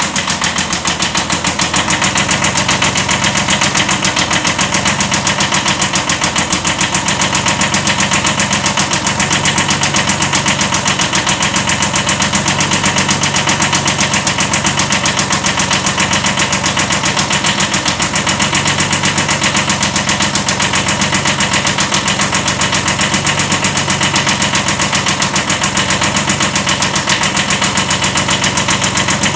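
The diesel engine of a 1979 Kubota B7100 compact tractor runs steadily with an even, rapid knocking pulse. It has a slight rod knock.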